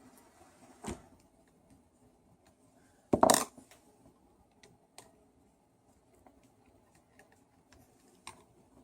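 Small metal parts or a tool clattering onto a hard work surface in a brief, loud rattle about three seconds in. There is a sharp click about a second in and scattered light ticks of handling afterwards.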